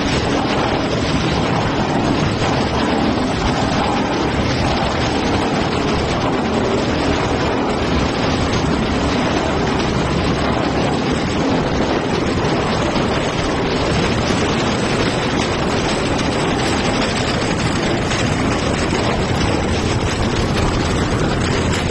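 Machinery of a plastic bag washing and recycling line running, a loud steady noise that does not change.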